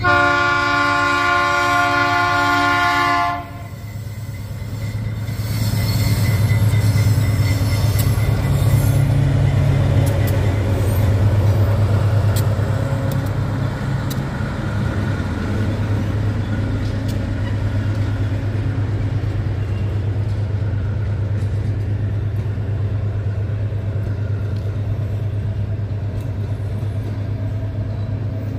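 Diesel locomotive air horn sounding one long chord that cuts off about three seconds in, then the freight locomotives' diesel engines passing close by, loudest in the middle, followed by empty hopper cars rolling past with scattered wheel clicks.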